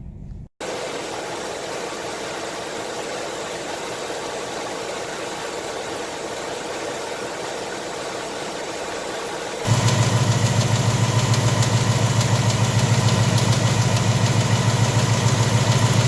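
2018 Mustang GT's 5.0 V8 idling steadily, in two separate stretches: the engine gets clearly louder, with a heavy low rumble, from about ten seconds in.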